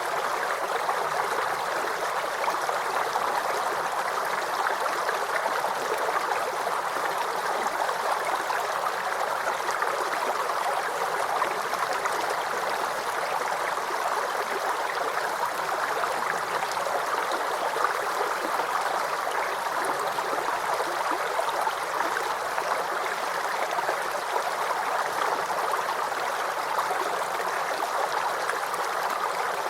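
Small brook running over stones, a steady babbling and gurgling of flowing water.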